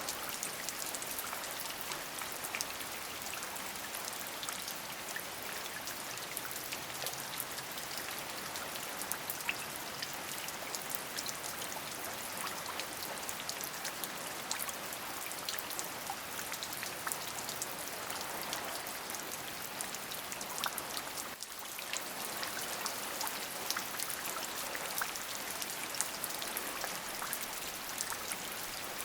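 Steady rain: a constant hiss dotted with many sharp ticks of individual drops, dipping briefly about three-quarters of the way through.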